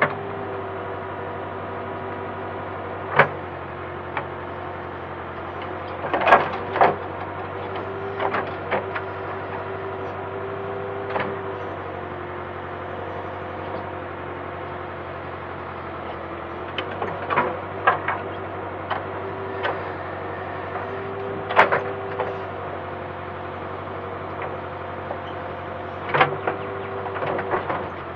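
Backhoe working: its engine runs steadily under a tone that comes and goes over several seconds, with sharp metallic knocks every few seconds, in small clusters at times.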